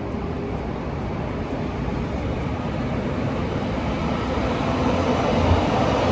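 Train running past on the line, a steady noise of wheels on rail that grows gradually louder toward the end.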